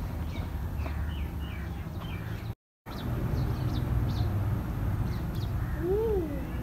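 Small birds chirping in short high calls over a steady low background rumble, with one rising-and-falling call near the end. The sound drops out completely for a moment about two and a half seconds in.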